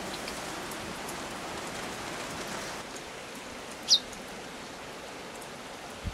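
Steady rain hiss, with one short, sharp, high call note from a male common chaffinch about four seconds in, the loudest sound.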